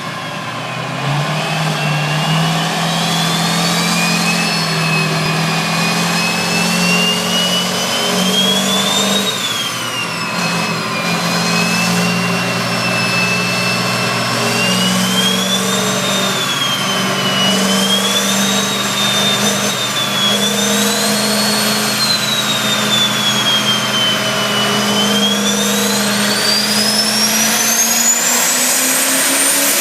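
Truck engine running with a high whine over it that rises and falls in pitch several times, then climbs steeply near the end.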